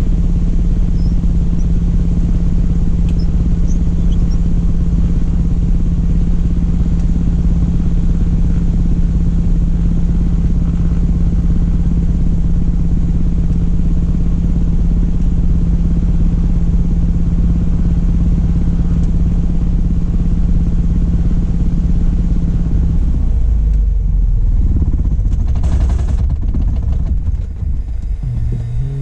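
Cessna Cardinal RG's four-cylinder Lycoming engine and propeller, a steady loud drone with a constant tone. About 23 seconds in the tone drops out, the sound shifts, and it begins to fade near the end.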